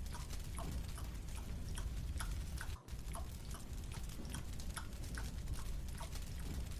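Soft, rhythmic chewing of a marshmallow: small wet smacking clicks, about two or three a second, with a brief break about three seconds in.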